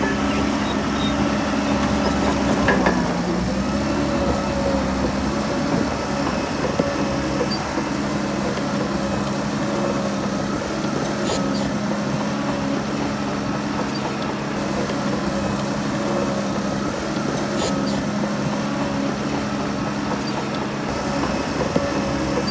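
Heavy diesel engine of earthmoving machinery running steadily under work, its pitch dipping briefly about three seconds in, with a few sharp metallic clicks scattered through.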